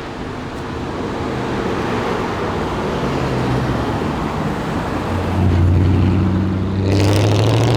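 Modified cars' engines and exhausts driving away, building in loudness; a deep exhaust drone comes in about five seconds in, and a car revs hard near the end.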